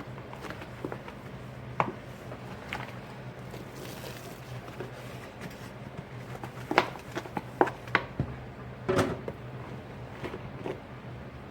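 Dishes and utensils clinking and knocking against each other as they are washed by hand, with a flurry of clinks about seven to nine seconds in, over a low steady hum.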